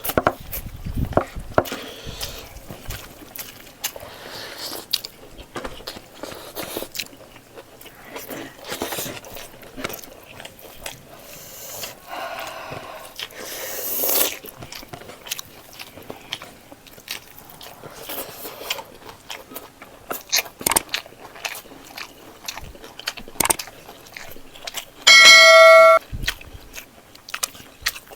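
Close-up mouth sounds of a person eating pork leg in gravy with rice: chewing, lip smacks and small clicks. Near the end a loud bell-like ring sounds once for about a second and cuts off suddenly.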